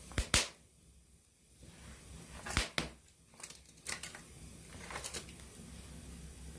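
Wood campfire crackling, with sharp pops from the burning wood: two near the start, two more about two and a half seconds in, and smaller ones around four and five seconds, over a faint low rumble.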